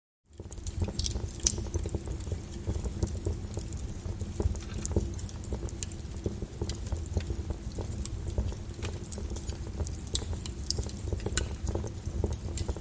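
Wood fire crackling in a fireplace: irregular sharp pops and snaps over a steady low rumble, starting a moment in.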